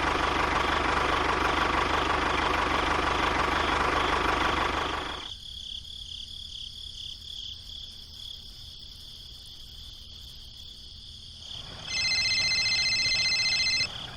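A small mini-tractor engine running steadily, cutting out suddenly about five seconds in, leaving crickets chirping. Near the end a brief high-pitched tone sounds for about two seconds and then stops abruptly.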